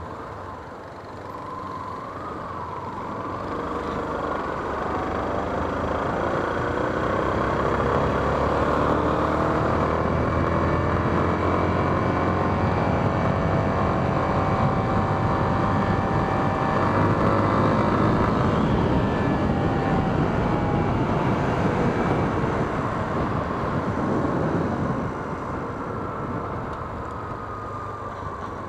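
Yamaha Fazer 250's single-cylinder engine running while riding, its pitch rising and falling with throttle and gear changes, over wind noise. It grows louder after the first few seconds and eases off near the end.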